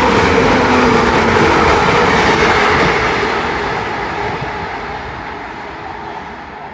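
A Class 185 diesel multiple unit passes through at speed without stopping: engine and wheel noise with a steady hum. It is loudest over the first three seconds, then fades steadily as the train draws away.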